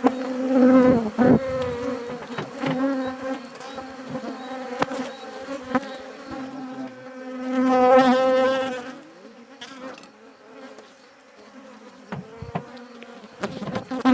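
Honey bees from a disturbed, aggressive colony buzzing around an opened hive. It is a steady, dense hum that swells loudly about a second in and again about eight seconds in as bees fly close past the microphone, with a few sharp clicks.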